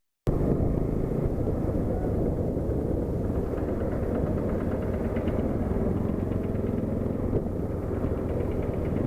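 Motorcycle running steadily under way, a constant low engine drone with road noise. It starts abruptly just after a short gap.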